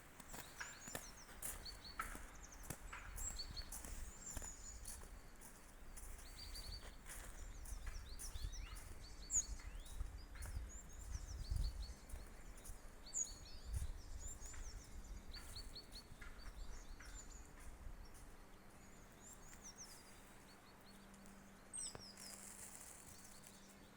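Small songbirds chirping: many short, high notes scattered throughout, several birds calling on and off. A low rumble sits under the first half and fades out.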